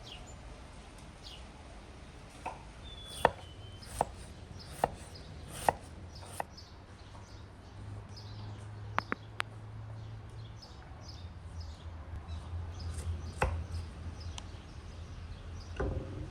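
Knife chopping on a wooden cutting board: about a dozen sharp, irregular knocks, a group in the first half and a few more later. Birds chirp faintly in the background.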